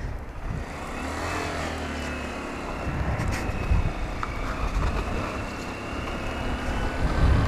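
The 125cc single-cylinder engine of a 2015 Honda Grom running as it is ridden, with its pitch briefly rising about a second in.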